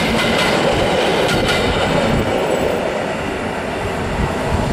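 Electric multiple unit passenger train running past at speed, its wheels clicking over rail joints in the first second or so. The rumble then eases off slightly as the last car moves away.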